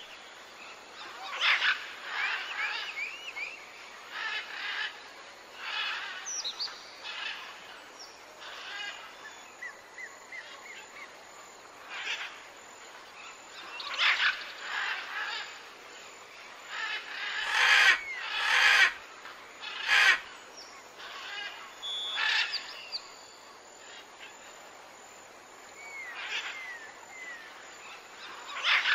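Several birds calling and chirping in short bursts every second or two, with small whistled glides, over a faint outdoor background. A few louder sharp knocks come a little past the middle.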